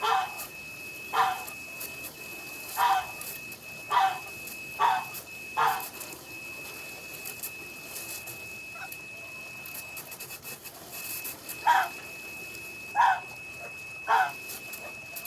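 A dog giving short yelps that fall in pitch, about one a second, in two runs with a pause of about five seconds between. A thin steady high whine runs under them.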